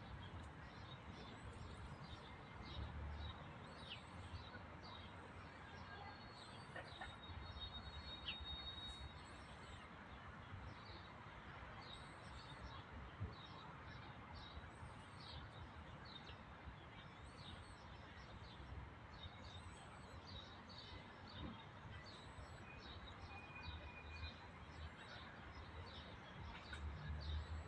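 Small birds chirping many times over, faint, over a low outdoor hiss.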